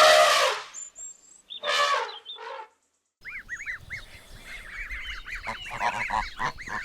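Goslings peeping: a rapid run of short, high, rising-and-falling peeps with a few lower honking calls among them. It begins suddenly about three seconds in, after a short gap of silence. A louder sound ends about half a second in.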